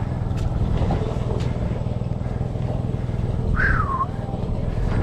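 Small engine running steadily at an even pitch. About three and a half seconds in, a short whistle-like call slides down in pitch.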